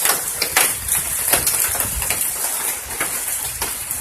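Hail falling with heavy rain: a steady hiss full of many irregular sharp clicks as hailstones strike hard surfaces.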